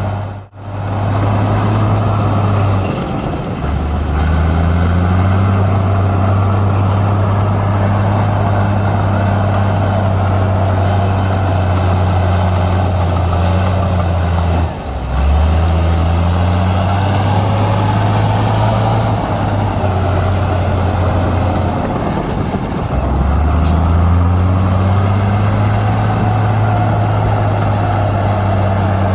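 Heavy diesel earthmoving engine running, its pitch sagging and picking up again several times as it takes and sheds load, with two short breaks in the sound.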